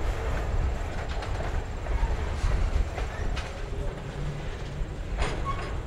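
Covered hopper cars of a freight train rolling past on jointed rail: a steady low rumble, with the wheels clacking over the rail joints a few times at irregular intervals.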